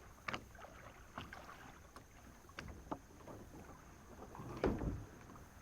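Kayak paddling: the paddle splashing in the water, with a few sharp knocks and one louder, deeper thump near the end.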